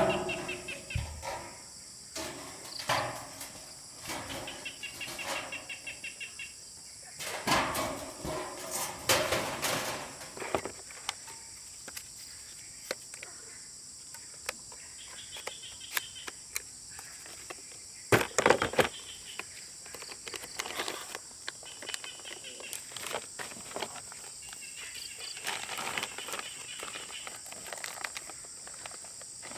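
Outdoor ambience of a steady high insect drone with repeated bird chirps, broken by a few louder knocks and rustles, the loudest about eighteen seconds in.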